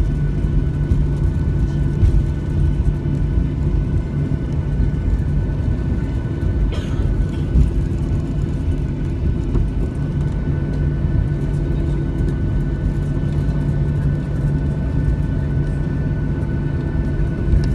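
Cabin noise inside a Boeing 737-600 on the ground after landing: a steady low rumble with a constant hum from the idling CFM56 jet engines. There is a brief click about seven seconds in.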